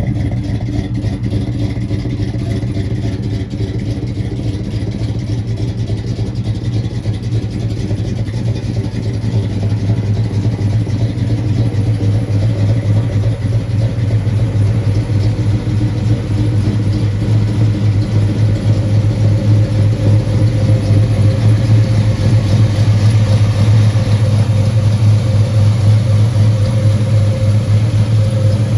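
Engine running steadily at idle after a cold start, following two days of sitting; it grows slightly louder over the stretch.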